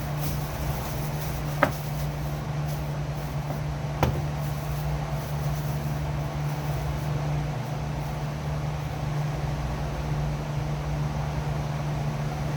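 A steady low mechanical hum, like a motor running, with two sharp clicks, one about a second and a half in and one about four seconds in.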